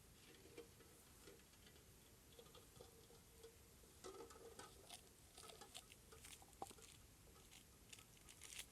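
Near silence with faint, scattered light clicks and rustles of small handling, a little busier from about four seconds in.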